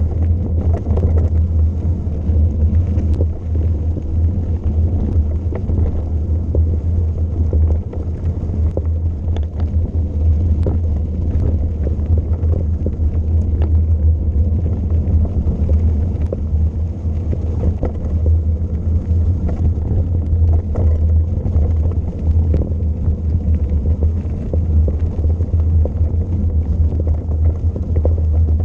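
Wind buffeting a bike-mounted camera's microphone during a descent: a loud, steady low rumble with scattered light ticks throughout.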